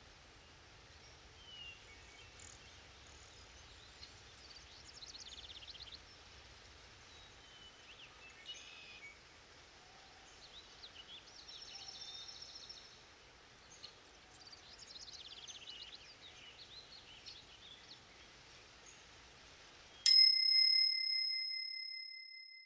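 Forest ambience with several birds singing and calling over a faint steady hiss. About twenty seconds in, the forest sound cuts off and a single bell ding rings out and fades: the yoga timer's signal that the interval is over.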